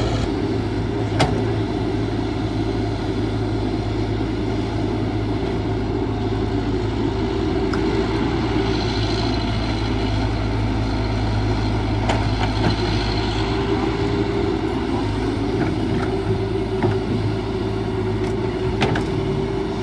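Caterpillar 312 hydraulic excavator's diesel engine running steadily while digging, with a handful of sharp knocks scattered through it.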